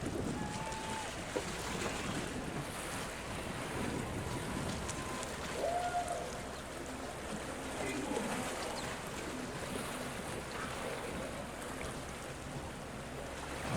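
Steady outdoor wind and water noise, with wind buffeting the microphone and a couple of faint short tones.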